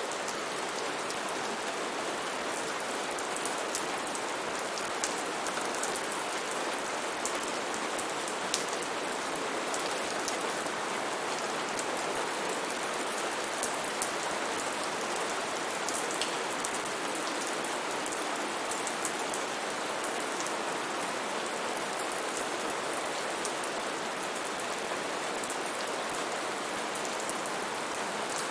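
Steady rain falling in a rainforest, a dense even hiss of rain on leaves and surfaces, with scattered sharper drop clicks in the first half.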